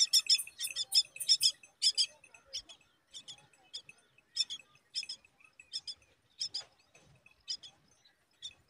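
Myna nestlings chirping: short, high, sharp chirps, quick and close together for the first two seconds, then thinning to single chirps about every half second to second.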